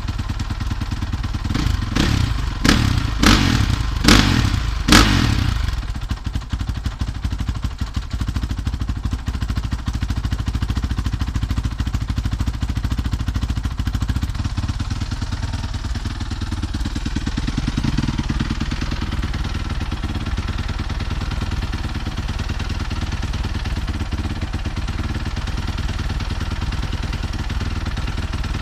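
2015 Honda CRF450R's single-cylinder four-stroke engine running, blipped sharply about half a dozen times in quick succession in the first few seconds, then settling to a steady idle.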